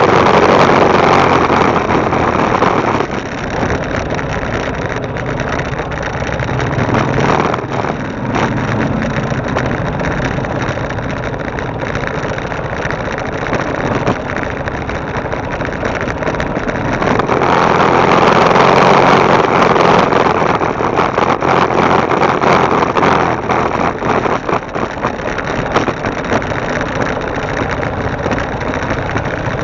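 Motorbike engine running, with wind noise rushing over the mounted camera's microphone. The wind is heavier at the start and again a little past the middle.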